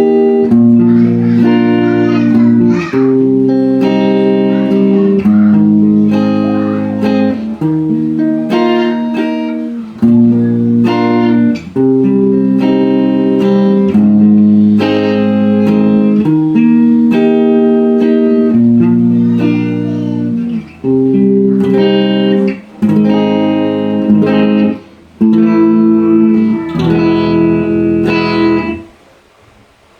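Electric guitar played through a Marshall MG30DFX guitar amplifier, working again after a repair: a run of chords and notes ringing out with brief breaks, stopping shortly before the end.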